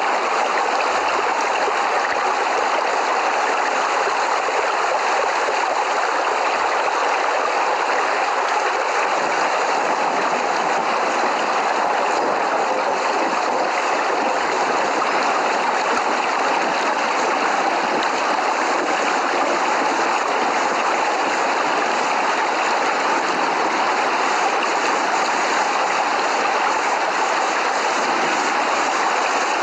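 Steady, dense rainfall: an unbroken hiss of rain with no thunder standing out.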